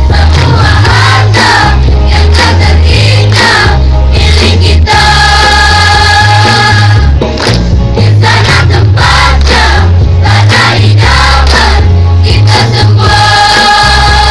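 Student choir singing, with long held chords about five and twelve seconds in, over a loud, heavy bass line.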